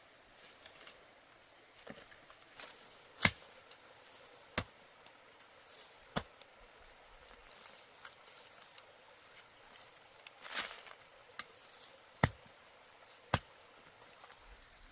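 Irregular sharp chopping strikes from a hand tool, five loud blows with pauses of one to several seconds between them, and fainter knocks and rustling in between.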